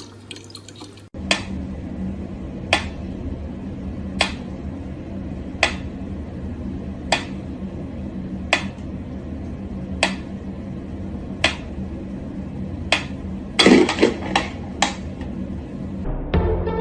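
Sharp, ringing taps repeating evenly about every second and a half over a steady low hum, then a quick flurry of louder taps near the end.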